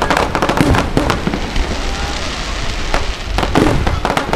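Fireworks display: aerial shells and ground fountains going off in quick succession, sharp bangs and crackling over a steady hiss, with clusters of reports at the start and again about three and a half seconds in.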